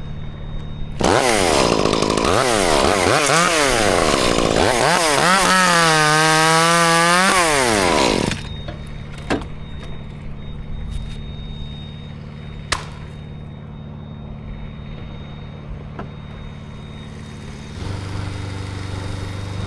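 Two-stroke chainsaw revved up and down in quick bursts, then held at full throttle for a couple of seconds before it cuts off about eight seconds in. A steady low engine hum runs underneath and grows louder near the end.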